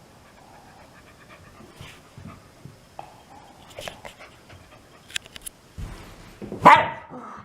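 Shiba Inu dog making a few faint clicks and rustles, then one sudden loud sneeze a little past six and a half seconds in.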